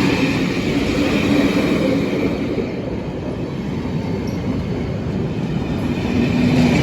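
A train running over the rails with a steady rumble and a faint wheel squeal, dipping slightly in the middle and building again near the end.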